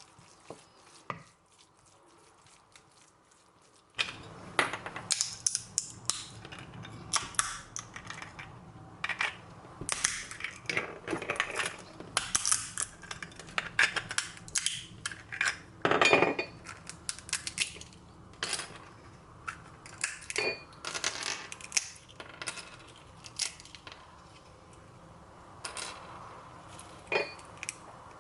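Kitchen clatter: metal utensils and dishes clinking and knocking, many short sharp strikes, some ringing briefly, starting about four seconds in.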